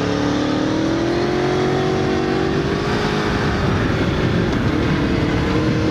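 Aprilia Tuono V4 motorcycle's V4 engine running on the road, its pitch rising slowly and then holding, easing briefly about four seconds in before coming back steady, with wind rushing over the microphone.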